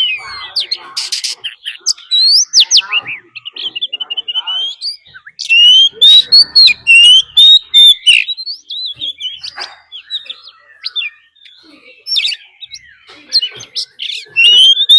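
Oriental magpie-robin singing a challenge song of varied whistled phrases and chatter, rising and falling. The loudest, most rapid phrases come about a third of the way in and again near the end.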